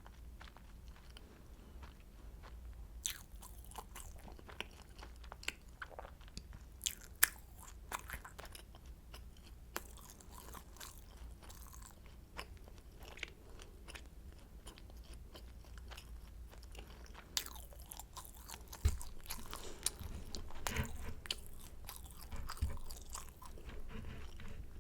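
Close-miked eating of a croissant: crisp, flaky crackles as the pastry is bitten and chewed, coming more thickly in the last third, over a faint steady low hum.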